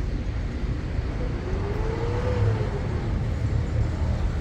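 Steady low rumble of a vehicle running, with a faint tone that rises and then falls about two seconds in.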